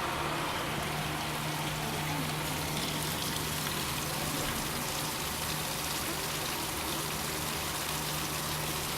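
Steady rushing of running water, with a faint low hum underneath.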